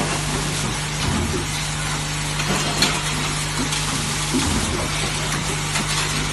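Semi-automatic spot welding machine running, with a steady electrical hum under a continuous crackling, sizzling noise and a few sharp clicks.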